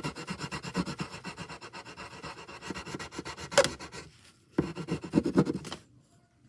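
Rapid back-and-forth colouring strokes on paper, about five strokes a second, as the dog's tongue is filled in pink. There is a sharp tap about three and a half seconds in, a short pause, a second burst of strokes, then the strokes stop about a second before the end.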